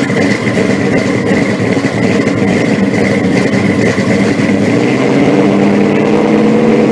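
A car engine running steadily and loudly, with a rapid even pulse, then cutting off suddenly just after.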